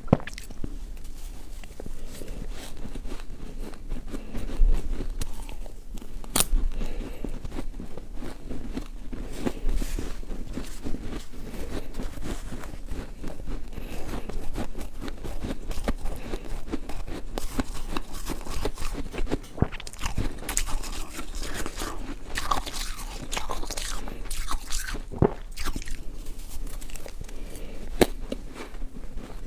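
A person biting and chewing ice, a continuous irregular crunching with a few sharper cracks as pieces break.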